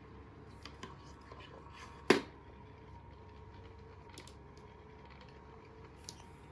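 Kittens playing with an automatic electric cat toy: a faint steady motor hum with scattered small clicks and taps, and one sharp knock about two seconds in.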